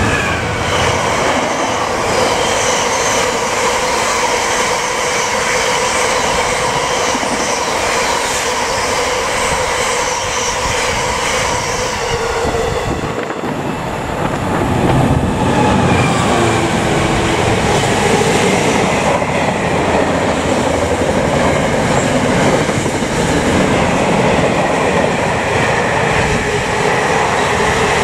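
Class 66 diesel freight train passing at speed, its hopper wagons rolling by with steady rail and wheel noise. About halfway the sound dips briefly, then a second freight train of empty container flat wagons is heard rolling past.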